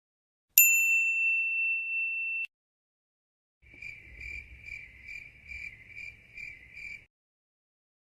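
A bright bell ding sound effect that rings on one high tone and cuts off abruptly after about two seconds, followed by a cricket chirp sound effect, a high chirp repeating about twice a second for some three seconds.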